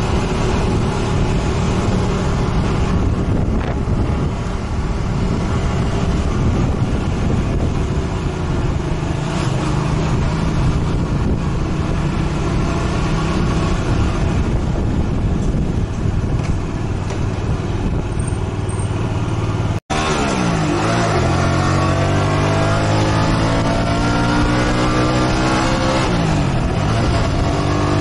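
Motorcycle engine running while riding, with steady wind and road noise. After a brief dropout about two-thirds of the way in, the engine pitch climbs steadily, drops once at a gear change and climbs again as the bike accelerates.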